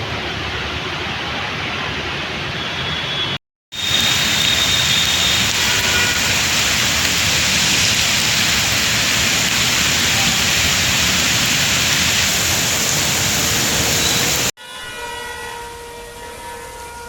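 Steady hiss of heavy rain and traffic on a waterlogged street. It cuts out for a moment a few seconds in and comes back louder. Near the end it drops to a quieter street noise with a few steady engine or horn tones.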